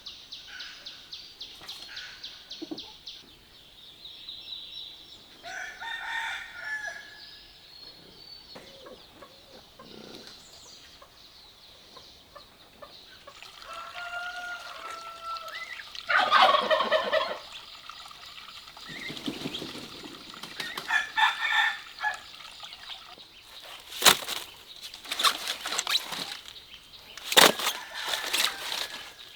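Domestic poultry calling several times, the loudest call about halfway through. Sharp knocks follow near the end.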